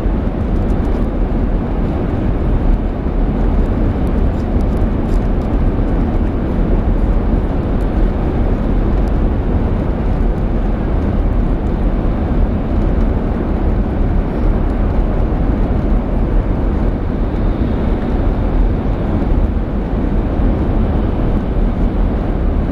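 Shinkansen bullet train running, heard inside the passenger car: a steady low rumble and rush of wheels, track and air that holds even throughout, with no distinct knocks or announcements.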